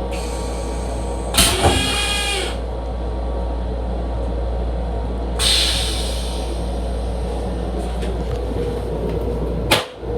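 Steady rumble of a Metro-North M7 electric railcar, heard from inside the car. There are two short hissing bursts, one about a second and a half in and one about five and a half seconds in, and a sharp click near the end.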